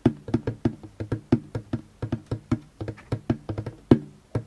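Djembe played with the hands: a fast, slightly uneven run of taps, about five to six a second, with the drum's low ring under each stroke and one harder stroke near the end.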